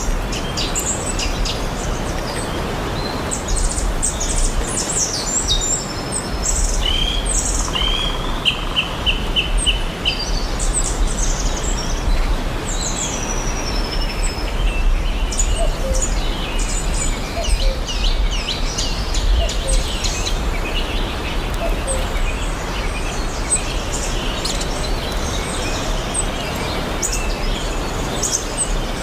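Many small birds chirping and singing, with quick repeated notes and short trills, over a steady rushing background noise with a low rumble.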